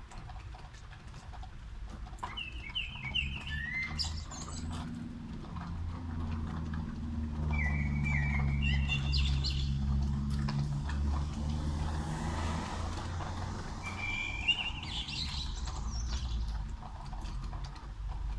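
A songbird sings short chirping phrases three times. Underneath, a vehicle passes on the wet street: a low engine rumble swells in the middle with a brief tyre hiss, then fades.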